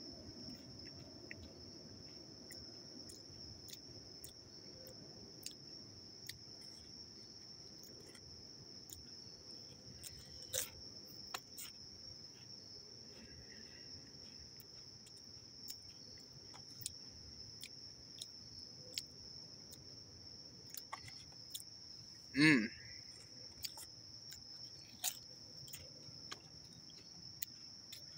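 Faint crunching as a Pringles potato crisp is chewed, over the steady high chirring of crickets. A brief, louder vocal sound comes about 22 seconds in.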